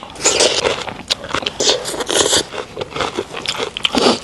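Close-up eating sounds of a person eating injera by hand: irregular wet chewing, smacking and crackly handling noises.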